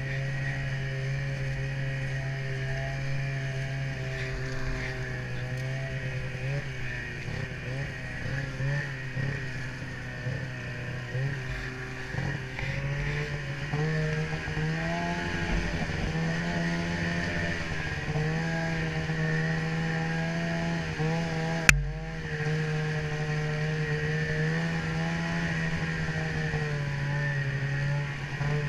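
Snowmobile engine running under way, its pitch wavering with the throttle and settling higher about halfway through. A single sharp knock comes about three-quarters of the way in.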